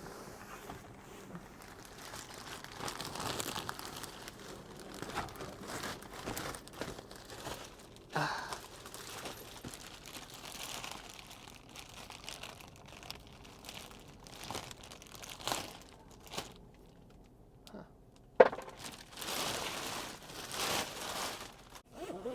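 Packaging crinkling, rustling and tearing as a newly bought item is unwrapped by hand, with one sharp knock about 18 seconds in.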